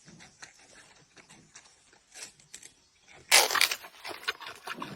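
Giant panda chewing a bamboo shoot: faint crackling bites, then a louder crunch about three seconds in.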